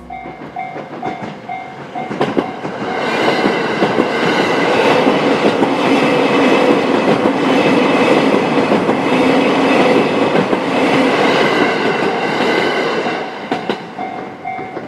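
A train passing at a level crossing, its wheels clattering over the rail joints, loudest for about ten seconds in the middle. A repeating two-tone crossing warning bell rings at the start and comes back near the end as the train fades.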